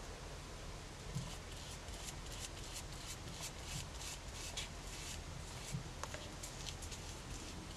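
Faint scratchy swishes and light rustles of a napkin and tools being worked on a paper craft tag as the napkin is glued down with Mod Podge, in short irregular strokes over a low steady hum.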